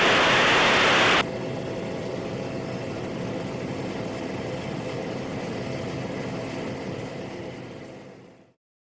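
A loud hiss of radio static for about the first second, then the steady drone of a PAC 750XL's turboprop engine heard through the headset intercom, fading out and cutting to silence near the end.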